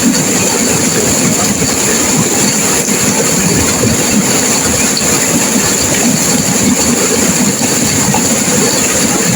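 Turbulent river water rushing and crashing: a loud, steady wash of noise with no breaks.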